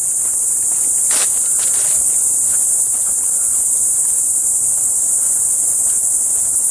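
Steady, high-pitched chorus of insects, unbroken throughout, with a few light rustles about a second in.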